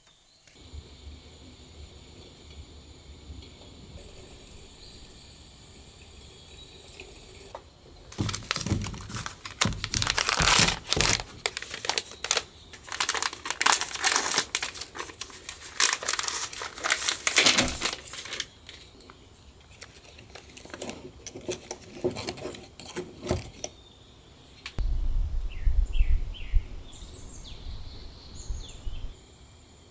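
Crinkling and rustling of packaging being handled, in loud dense bursts from about a quarter to two thirds of the way in, then thinning out. Near the end come a few soft low thumps and short squeaks.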